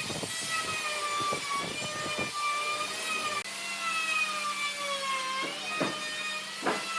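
Electric power tool motor whining, its pitch drifting slowly down and back up, with a rapid run of knocks in the first two seconds and two sharp knocks near the end.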